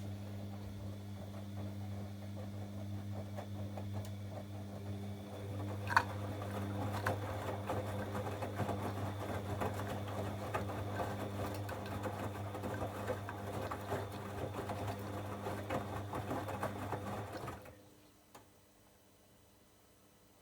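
Bosch Avantixx 7 washing machine turning its drum during a 90°C wash: a steady motor hum with the laundry rattling and tumbling inside, and a short rising chirp about six seconds in. The drum motor stops suddenly a few seconds before the end, leaving only a faint click.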